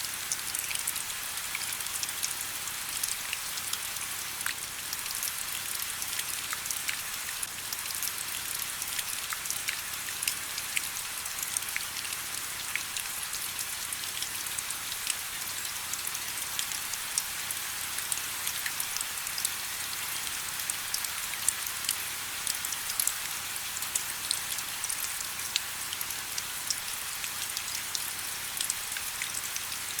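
Steady rain: a constant hiss dense with small, sharp drop ticks.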